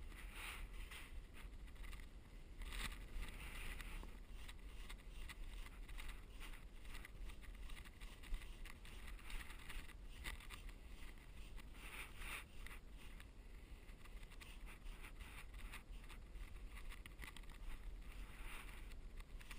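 Damp drywall sponge rubbing over joint compound on a ceiling patch in uneven strokes, a faint scrubbing swish: wet sanding to feather the patch edges without dust.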